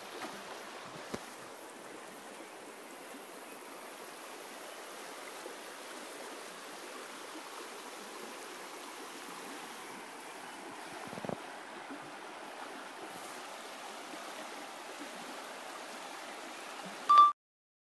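A stream running steadily over stones. Faint knocks come about a second in and again near the middle, and a short, loud pitched tone sounds just before the sound cuts off.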